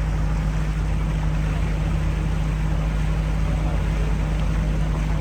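A river boat's engine running steadily, heard on board as a constant low drone.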